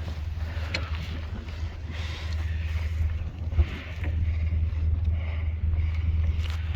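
Strong wind buffeting a phone's microphone in a blizzard: a steady low rumble with a shifting hiss over it.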